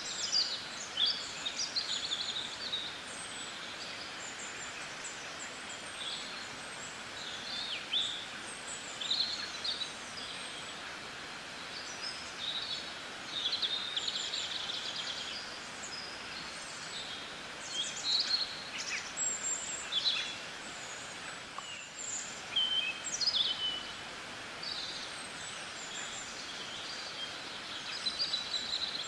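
Birds chirping and singing, many short high calls and quick falling notes scattered over a steady hiss.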